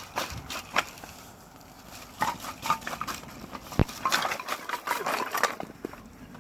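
Clattering and knocking of hard camping gear being handled, a run of sharp clicks and rattles with one sharper knock about four seconds in.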